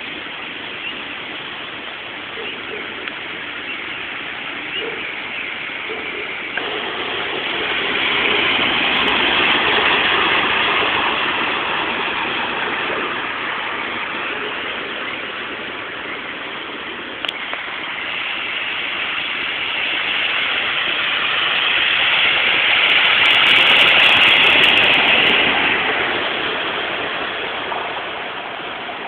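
Continuous rushing of storm water on a flash-flooded street, swelling louder twice, once about a third of the way in and again about three quarters of the way through.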